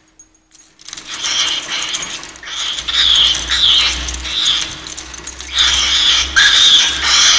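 Cockatiel screeching in a run of harsh, loud calls that start about a second in after a short pause and follow one another in quick bursts.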